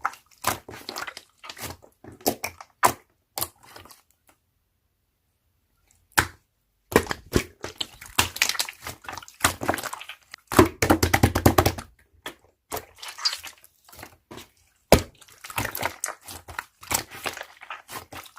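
Slime being squished and pressed by hand, a run of irregular sticky clicks, pops and crackles, with a short silence early on and a denser crackling stretch a little past the middle.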